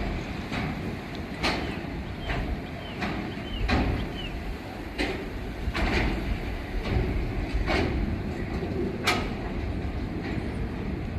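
Freight train wagons rolling past over a bridge: a steady low rumble with irregular sharp knocks as the wheels pass over the rail joints.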